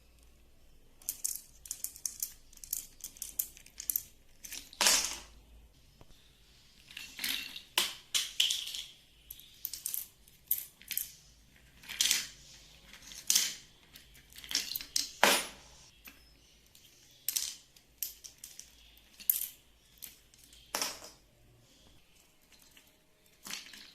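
Budgie's toys clinking, clicking and clattering as the bird knocks and tosses them. Irregular sharp knocks come in clusters, with a few louder drops among lighter clicks.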